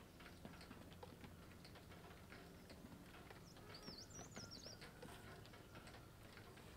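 Faint outdoor quiet with scattered light ticks and taps, and a short high warbling bird call about four seconds in.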